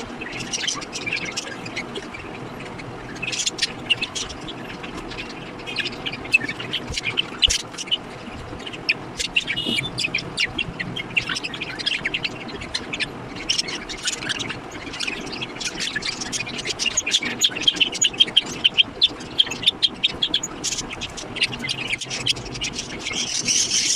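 Budgerigars chirping and chattering: many short, high chirps in quick succession, growing busier and louder in the second half.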